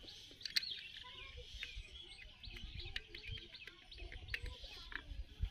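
Small birds chirping over and over in the background, with a few faint clicks and low knocks from hand work nearby.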